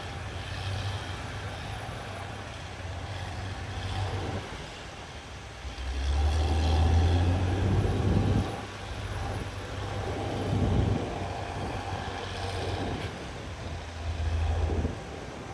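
CAT D6R XL bulldozer's diesel engine running, pulling harder in swells, the strongest about six seconds in and others near eleven seconds and near the end, each with a rise of rough noise from the machine working.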